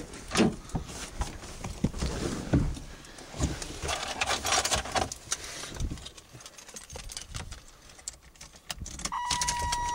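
Shuffling footsteps, knocks and keys jangling, then about nine seconds in the GMC Jimmy's dashboard warning tone comes on as the key is turned on, a steady high beep showing the battery still has some charge.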